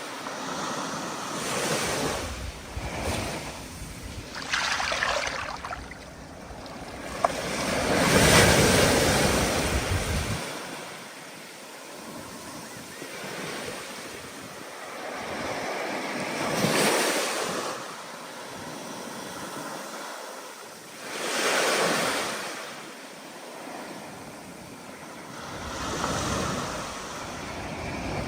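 Ocean surf in stormy wind: waves breaking and washing in, swelling and falling every few seconds. The biggest wave breaks about eight seconds in.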